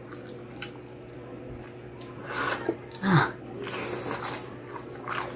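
Close-miked chewing of crispy pata (deep-fried pork knuckle), with soft crunching and wet mouth noises coming in two bursts. There is a short low hum about three seconds in.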